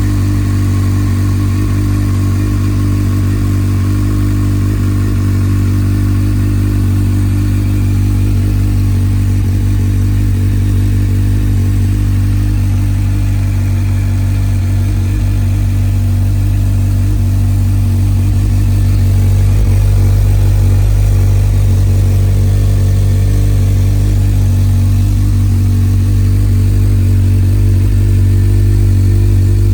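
2009 Honda CBF1000's inline-four engine idling steadily at an even pitch, a little louder towards the end.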